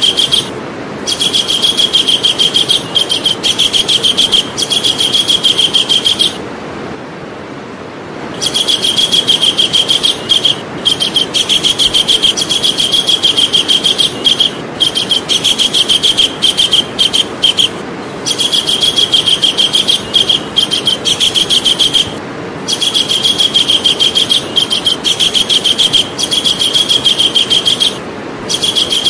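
Javan kingfisher calling: a loud, rapid rattling trill of repeated high notes, in bouts of several seconds broken by short pauses, with a longer pause about six seconds in.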